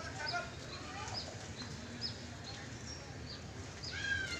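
A bird chirping over and over: short, high, falling notes about every half second, over a low background murmur. Near the end comes a louder call with a stack of pitches.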